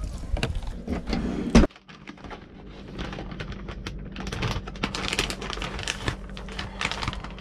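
Handling noises: a loud knock about one and a half seconds in, then irregular clicking and rustling over a low steady hum.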